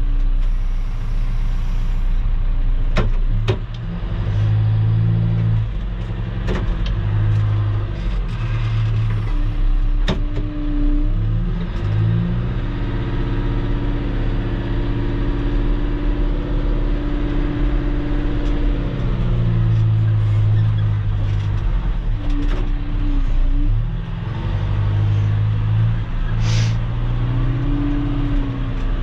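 Engine of a machine spreading a load of gravel road base, running continuously, its pitch shifting as the load changes and rising for several seconds around the middle. Several sharp clanks come in the first half, and a short hiss comes near the end.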